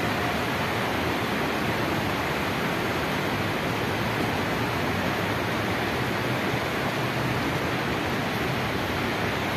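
Rain falling steadily, an even hiss with no breaks or changes.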